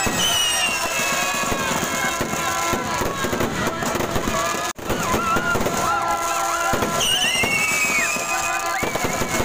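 A fireworks display crackling and popping in dense volleys, with high whistles falling in pitch, over crowd voices and music. The sound cuts out for an instant about halfway.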